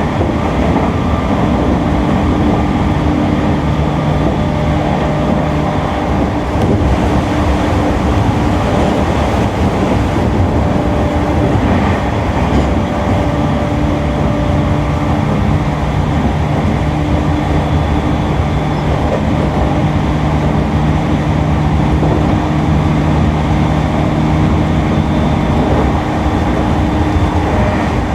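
E231-series electric train running at speed, heard from inside the car. Its traction motors give a loud, steady hum of several tones over the wheel and rail noise, with the lowest tone dropping out for a few seconds about a fifth of the way in.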